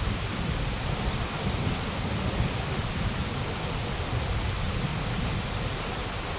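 Wind blowing, buffeting the microphone with an uneven low rumble over a steady rushing noise.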